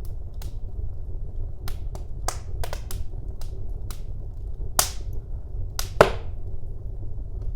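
Wood fire burning in a fireplace: a steady low rumble of flames with irregular sharp crackles and pops, the loudest pop about six seconds in.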